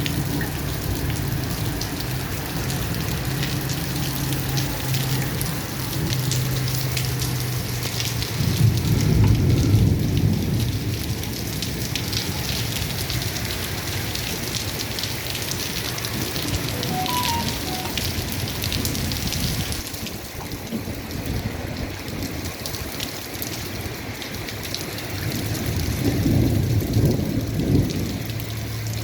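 Steady rain falling, with low rolls of thunder swelling about nine seconds in and again near the end.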